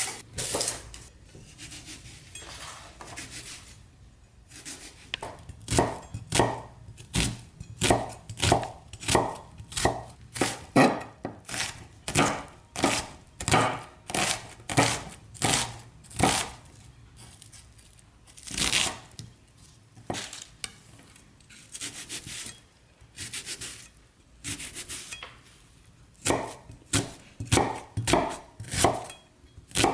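Kitchen knife chopping a white onion on a cutting board: a long run of irregular knocks, often about two a second, with short pauses between runs.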